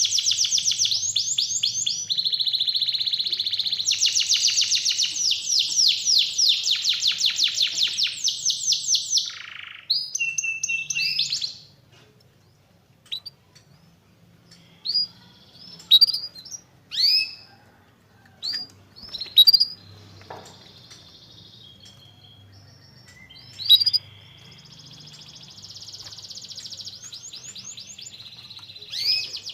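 Domestic canary singing: fast rolling trills and runs of rapid repeated notes for about the first ten seconds, then a stretch of single short chirps with pauses, and trilled song again near the end.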